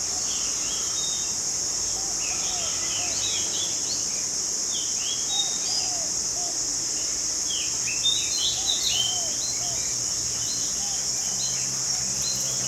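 Birds chirping with many short, high calls, busiest about two-thirds of the way through, over a steady high-pitched insect drone.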